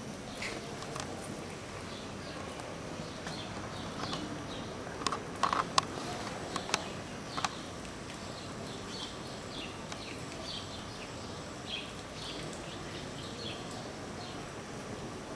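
Outdoor ambience under a steady background hiss, with a handful of sharp, irregular clacks about five to seven seconds in and faint high chirps later.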